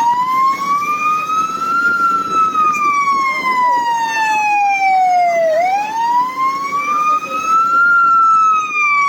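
Police siren on a slow wail, the pitch rising for about two seconds and falling for about three and a half, twice, over a low rumble of vehicle noise.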